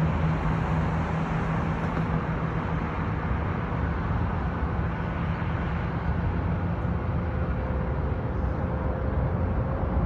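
Airbus A321-231 jet noise from its IAE V2500 turbofan engines: a steady rushing noise with a low hum that weakens after the first couple of seconds, and a faint tone that starts to rise near the end.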